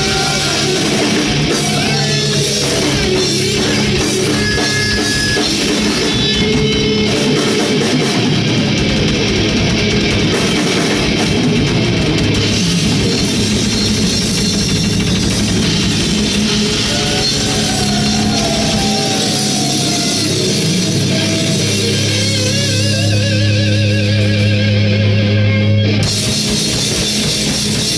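Heavy rock band playing loud distorted electric guitars over a drum kit, with a held note wavering in pitch near the end.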